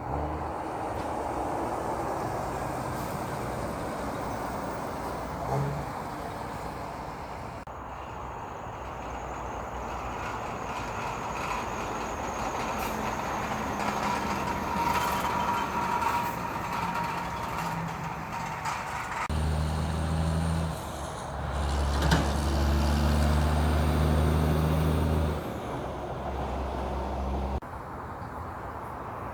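Heavy trucks passing in road traffic. About two-thirds of the way through, one truck's diesel engine runs loud and close for several seconds in a few stretches, then drops away a couple of seconds before the end.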